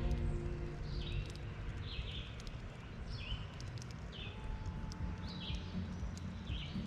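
A bird chirping over and over, short two-part notes a little over a second apart, over a steady low rumble of the outdoors.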